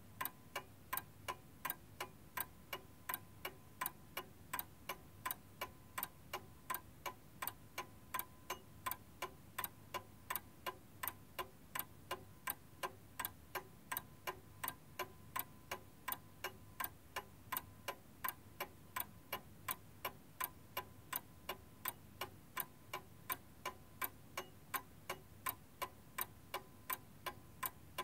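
Steady, evenly spaced ticking at about three ticks a second, like a clock, with nothing else heard.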